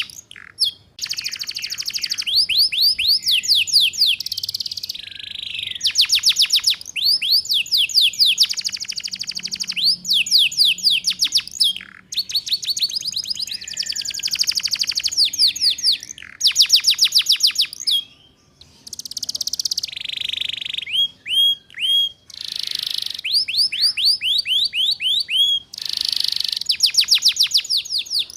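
Domestic canary singing in fast trills of rapid downward-sweeping notes, phrase after phrase with short breaks: the chattering 'ngeriwik' style of canary song.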